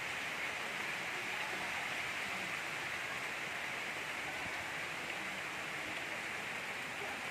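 Gentle rain falling steadily, an even hiss of many small drops with no thunder.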